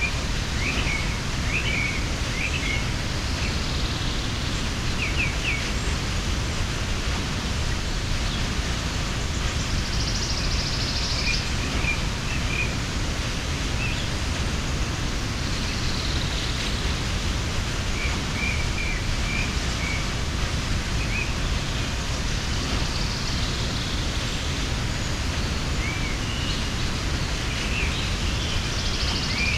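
Waterfall rushing steadily, with small birds giving short chirps now and then over the water noise.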